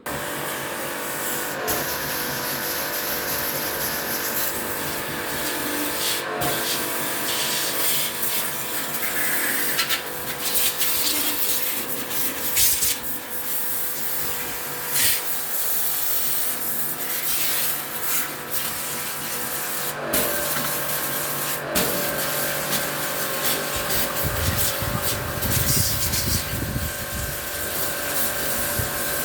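Electric jet pump running steadily with a constant motor hum, its water spray hissing and rising and falling in loudness as the jet is moved over the air conditioner, as in washing the coils during a window AC service.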